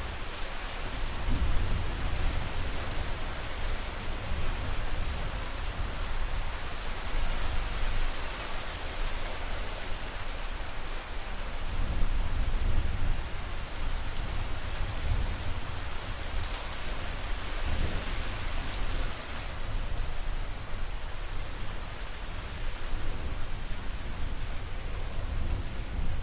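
Steady, dense rain falling, an even hiss that swells and eases slightly, over a deep low rumble that rises and falls throughout.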